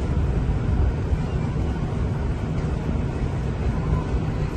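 Ferry's engines running under way: a steady, low rumble.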